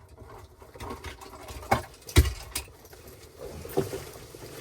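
Handling noises from hand wiring work: a few sharp clicks and knocks of wire and tools being handled, the loudest about two seconds in.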